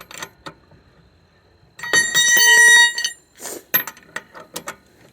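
Tire iron clinking on lug nuts and wheel studs as the nuts are run down snug, with a ringing metal clatter lasting about a second near the middle and scattered sharp clicks around it.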